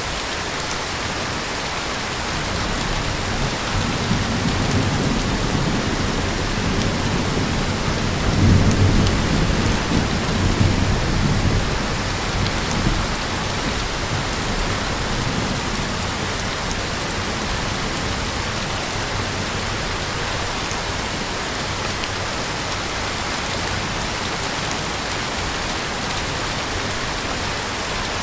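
Heavy rain falling steadily outdoors, with a low rolling rumble of thunder that builds a few seconds in, peaks around the middle of the first half and dies away.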